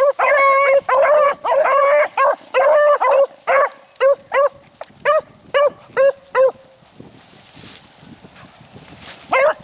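Hunting beagles barking and baying on a rabbit hunt. The barks come fast and close together at first, then thin out to single barks, pause about seven seconds in, and one more bark comes near the end.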